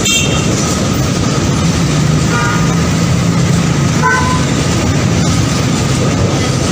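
A train running loudly on the rails, with a steady low engine drone under a dense rumble. Two short horn toots come about two and four seconds in.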